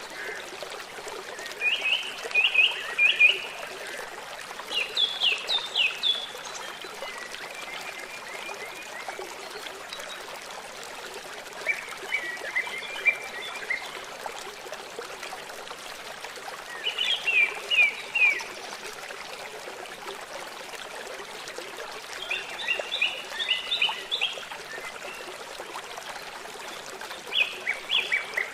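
A songbird repeating short phrases of quick falling notes every four to five seconds, over a steady rush of flowing water from a stream or waterfall.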